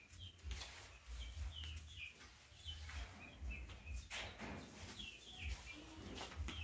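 Birds chirping: many short, high chirps in quick succession, over a faint low rumble with a few soft knocks.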